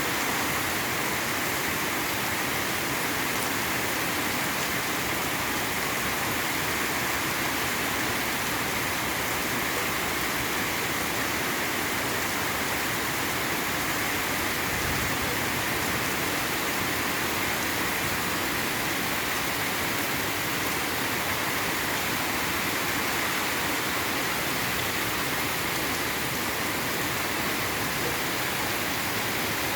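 Steady rain falling: an even, unbroken hiss of rain with no distinct drops standing out.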